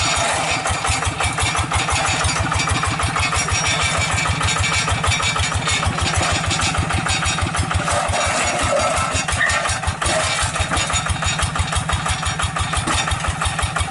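Hand tractor's single-cylinder diesel engine running steadily with a fast, even chugging beat.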